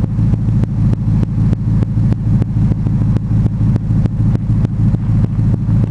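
Ram Daytona pickup's V8 running through a Magnaflow aftermarket exhaust at a steady idle: a deep, even rumble with a regular pulse about five times a second.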